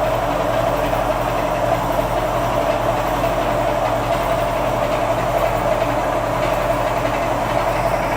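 Homemade spring-engine generator rig running, a steady mechanical hum with a rushing whir that holds constant throughout.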